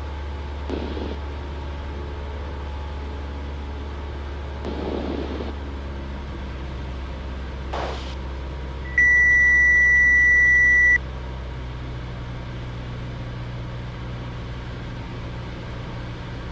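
Cessna 172 engine drone heard through the cockpit intercom, with a single steady electronic beep lasting about two seconds, about nine seconds in, and a few faint brief noises before it.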